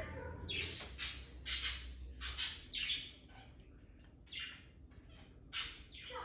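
Amazon parrot giving a series of short, chirpy calls, about eight in all, each falling quickly in pitch, with a pause of a second or so before the last couple.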